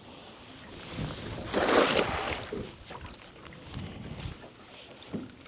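Water splashing from a cast net being worked in the river: one loud splash about a second and a half in that lasts about a second, with faint water and handling sounds around it.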